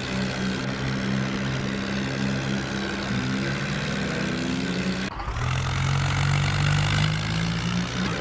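Tractor diesel engine running with a steady drone. About five seconds in the sound changes abruptly to a lower, slightly louder engine note.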